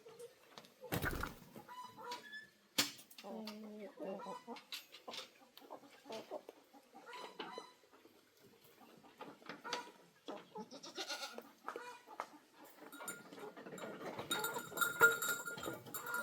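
Farm animal calls mixed with scattered clicks and knocks, with a heavy thump about a second in and a denser patch of calls near the end.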